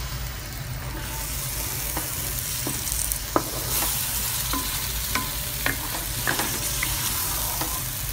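Spice paste for chicken curry sizzling in a hot pan after a splash of water, being fried down until the oil separates, with steady hissing and scattered pops. A wooden spatula stirs and scrapes against the pan, giving sharp ticks.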